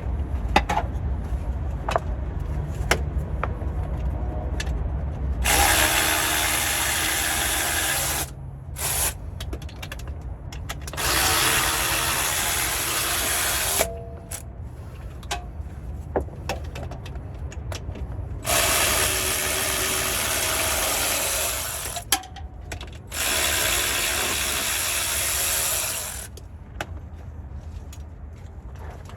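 A cordless power tool runs in four bursts of about three seconds each, with light clicks and knocks of metal tool handling between them.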